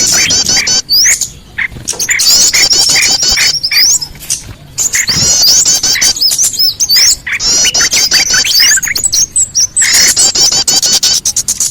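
Bird-lure recording of small birds chirping and twittering: dense, fast, high calls repeated almost without pause, with short breaks about a second in and about four seconds in.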